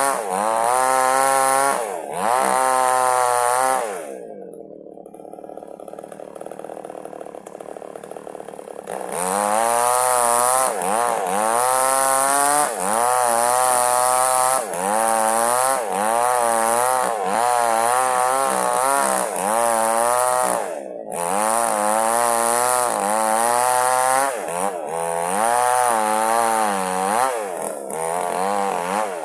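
Two-stroke chainsaw at full throttle cutting through wood, splitting a log lengthwise, its pitch rising and falling about once a second under load. About four seconds in it drops to idle for several seconds, then revs back up and goes on cutting.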